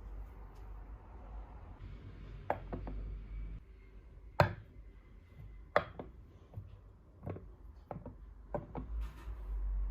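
Irregular light knocks and clicks of household objects being handled and set down, about six sharp ones with quieter handling in between, the loudest about halfway through.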